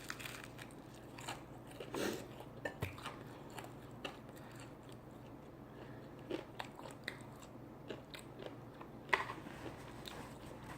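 A person eating close to the microphone, chewing and biting food, likely the baked chicken wings, with scattered short wet clicks and smacks of the mouth. The strongest bites come about two seconds in and again near the end.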